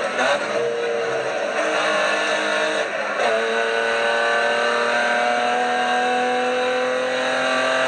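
BMW 325 E36 rally car's straight-six engine heard from inside the cabin, pulling under load at speed. The note breaks briefly just after the start and again about three seconds in, gear changes, and its pitch climbs slowly after each.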